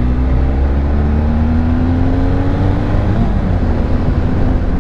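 Motorcycle engine accelerating, its pitch climbing steadily for about three seconds, dropping at a gear change, then climbing again, over heavy low wind rumble on the helmet microphone.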